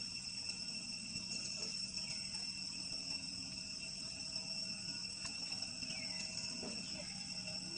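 Insects, such as crickets, giving a steady, high-pitched, continuous drone, with a couple of faint, short falling calls.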